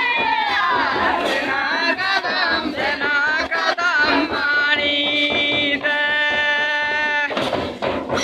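Many voices, men and women, singing a Mundari Karam dance song together, with a long held note near the middle.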